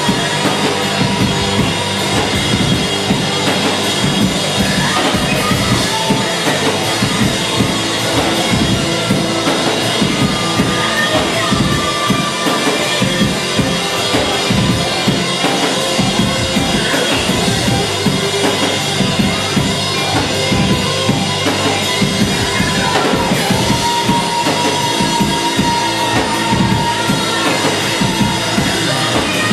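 Live band playing loud music, the drum kit driving a steady beat of kick and snare under held melodic notes.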